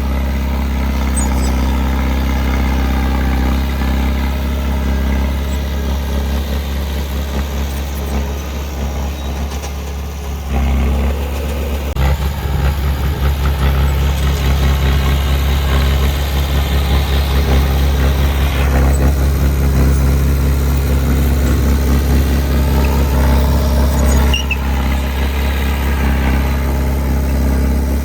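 Heavy diesel engine of earthmoving equipment running steadily. About ten seconds in it steps up and works harder, louder and rougher, then eases back a few seconds before the end.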